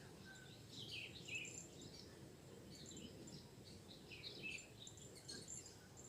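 Faint outdoor ambience: small birds chirping in a few short clusters of quick calls, over a thin steady high insect hum and low background noise.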